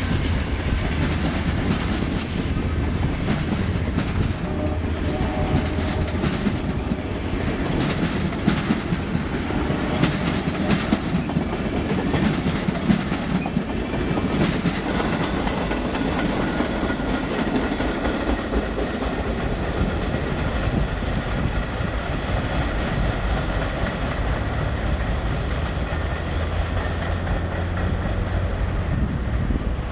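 A train rolling past, a steady rumble with its wheels clicking over the rail joints, the clicking strongest about a third of the way through.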